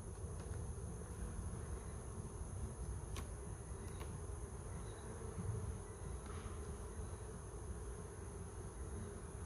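A swarm of honeybees buzzing around an open hive in a steady hum, with a couple of light clicks about three and four seconds in.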